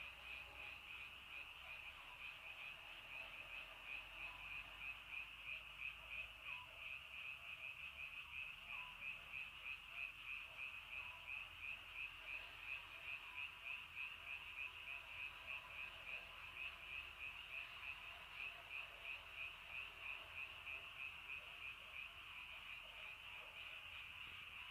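Frogs calling in chorus: a high, pulsing trill, with the loudness swelling about twice a second.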